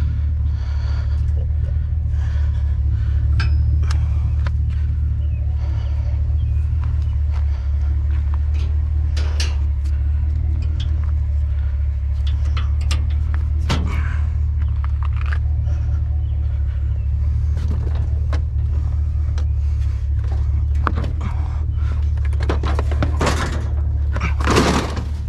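A vehicle engine idling steadily, with scattered knocks, clanks and rattles of junk being handled, busier near the end.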